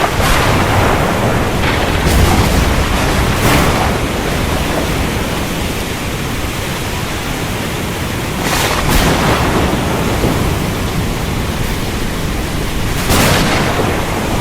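Thunderstorm: a steady wash of rain with low rolling thunder underneath, and four brief louder surges of noise, about one every three to five seconds.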